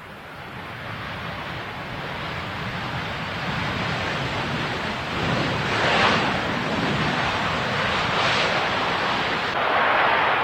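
Jet airliner on approach to land, its rushing engine noise growing steadily louder, with gusts of wind buffeting the microphone.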